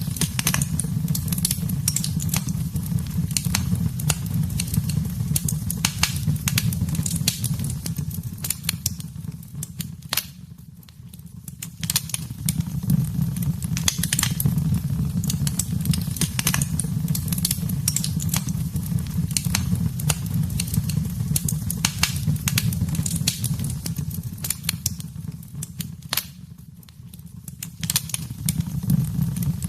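Wood fire burning in a fireplace: dense crackling and popping over a steady low rumble. The crackling thins out twice, for a second or two around ten seconds in and again near the end.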